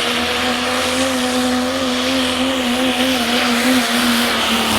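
Diesel 4x4 pickup truck's engine running flat out under the heavy load of a pulling sled, its note held nearly steady at high revs with a slight waver.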